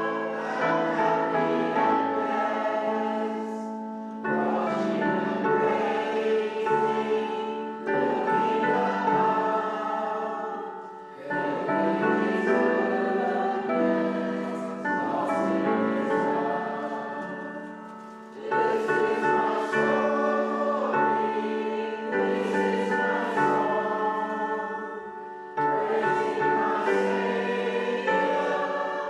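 A hymn sung by many voices with instrumental accompaniment, in sung phrases a few seconds long with short breaks between them.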